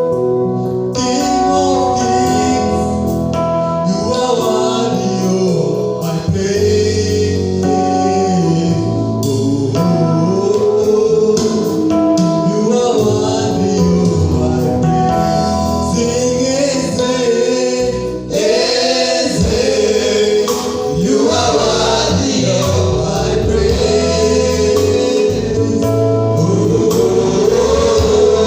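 Gospel worship song: a choir singing over sustained keyboard chords and a bass line, with a brief drop about 18 s in before the music comes back in.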